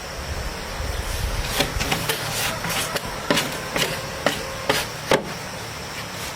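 A series of about eight sharp, irregular knocks, like something being struck, with the loudest near the end.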